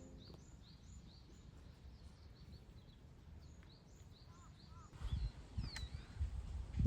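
Small birds chirping in short, high, repeated calls. From about five seconds in, low thuds and rumble come in, loudest near the end.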